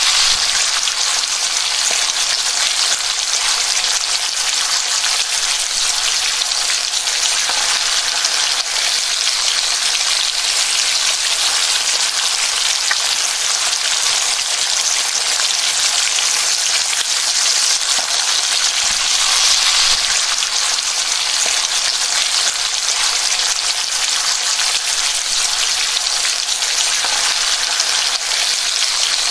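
Onions and minced meat sizzling in hot oil in a non-stick frying pan, stirred with a wooden spatula: a steady frying hiss.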